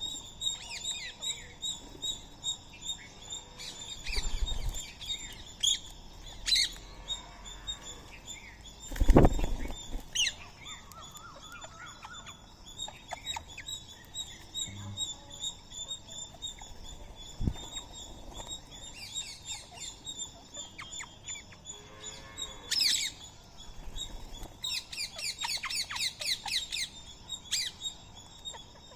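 Birds chirping and calling, many short chirps over a steady high-pitched tone. A loud dull thump about nine seconds in, and a burst of rapid chirping near the end.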